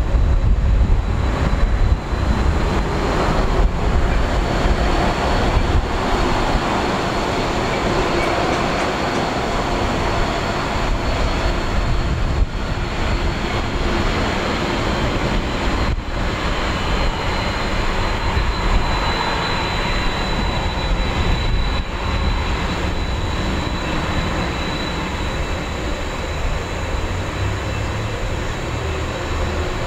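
General Electric CF6 turbofans of a Boeing 767-300 running steadily: a loud rumble with a thin, high fan whine that drifts slightly up and back near the middle.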